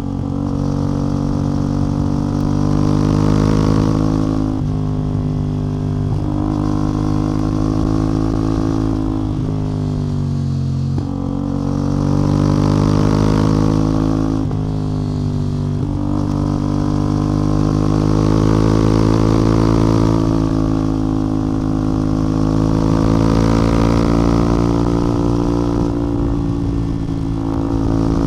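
CF Moto 450MT's parallel-twin engine and exhaust under way, pulling up through the revs and shifting gears several times, with the pitch climbing and then dropping sharply at each shift, and easing off in between.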